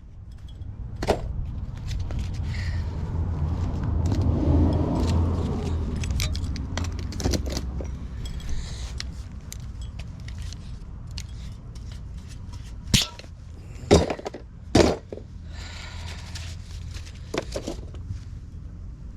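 Clicks, knocks and clatter of tools and pipe scraps being handled during cleanup, with three sharp knocks close together past the middle. A steady low rumble runs underneath and swells for a few seconds near the start.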